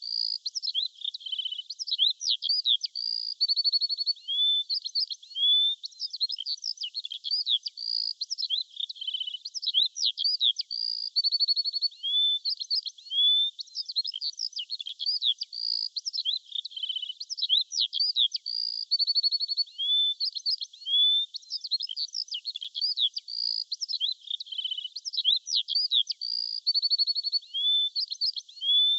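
Songbirds chirping and singing without pause: quick chirps, short rising and falling whistles and brief trills, all high-pitched, with no other sound beneath them.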